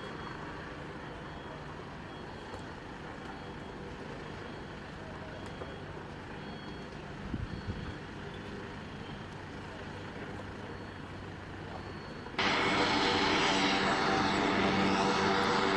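Aircraft engine noise, steady and moderate, then abruptly much louder about twelve seconds in, with several steady engine tones.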